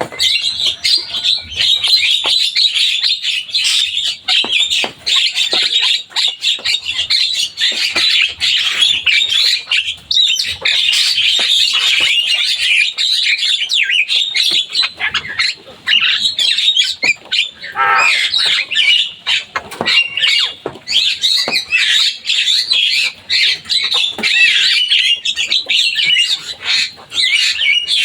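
Javan myna (jalak kebo) singing nonstop: a dense, unbroken run of quick, varied chattering notes, with one longer falling note about two-thirds of the way through.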